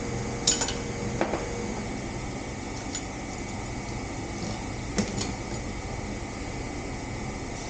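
A few short, sharp knocks and clinks, the clearest about half a second in, just after one second and at five seconds, over a steady background hum.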